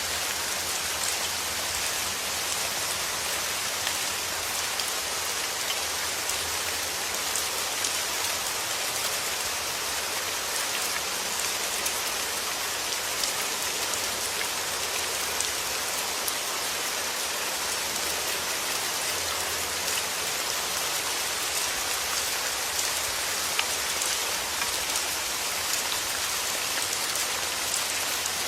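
Steady soft rain falling, an even hiss with small drops pattering on a surface.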